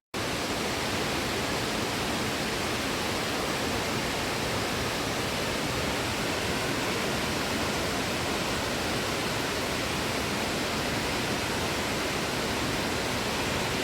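A tall waterfall's water crashing down, a steady, even rush with no break.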